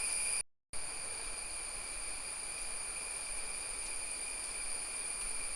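Steady high-pitched drone of insects, with a soft outdoor hiss underneath. The sound drops out briefly about half a second in, then carries on unchanged.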